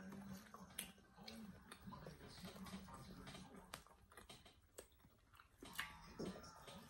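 Faint chewing of corn dogs, close to the microphone, with many small wet mouth clicks.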